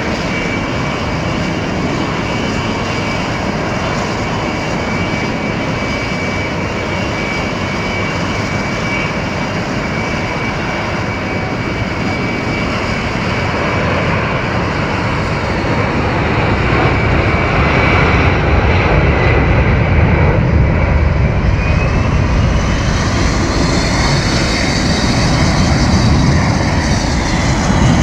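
Boeing C-17A Globemaster III's four turbofan engines running, a steady jet noise with a high fan whine. The sound grows louder over the second half, and a whine rises in pitch and then drops back near the end.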